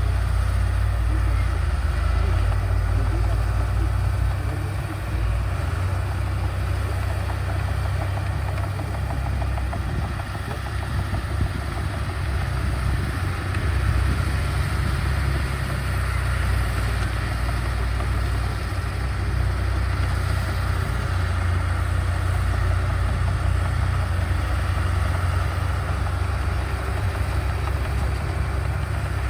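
Heavy diesel earthmoving machinery running steadily, a deep continuous engine rumble that eases slightly a few times.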